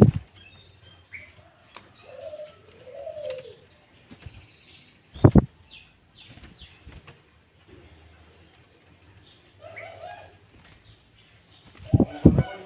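Birds chirping in short high notes, with a few lower cooing notes. Loud low thumps sound at the start, about five seconds in, and twice in quick succession near the end, like wings flapping.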